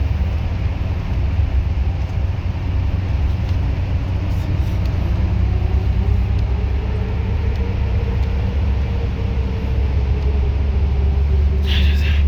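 Bus engine and drivetrain heard from inside the cabin: a steady low rumble with a whine that rises and then falls as the bus speeds up and eases off. A short, higher sound comes near the end.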